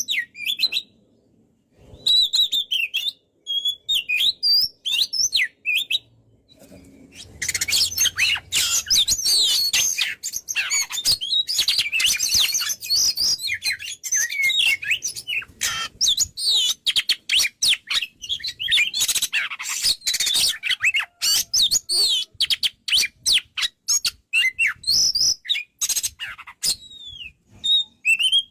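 Oriental magpie-robin (kacer) in full song. A few separate whistled chirps give way, about seven seconds in, to a loud, rapid, unbroken stream of whistles, trills and chirps that runs until near the end, where it breaks back into separate chirps.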